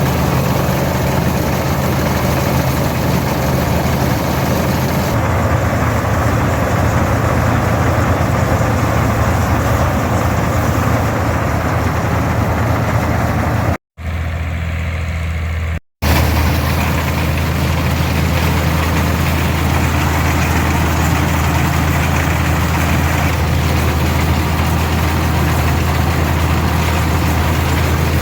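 Farmall 460 tractor's six-cylinder 282 diesel engine running steadily, pulling and powering a pull-type combine. The sound drops out twice, briefly, about 14 and 16 seconds in.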